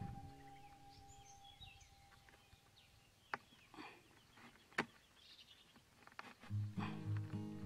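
Small birds chirping in short calls over faint outdoor background noise, with two sharp clicks about a second and a half apart in the middle. Background music fades out at the start and comes back in near the end.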